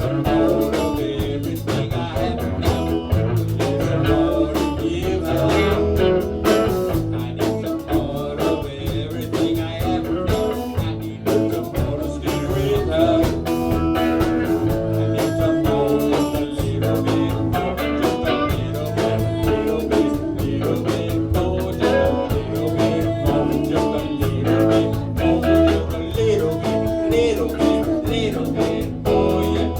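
Blues-style band music led by guitar, with a steady beat and a strong bass line.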